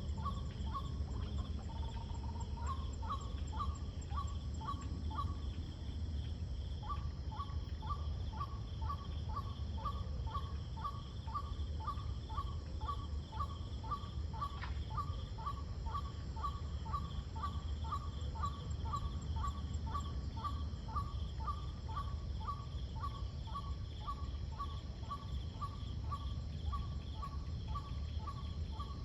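Twilight chorus of insects shrilling steadily, over which an animal repeats a short call about twice a second, with a brief pause a few seconds in. A steady low rumble runs underneath.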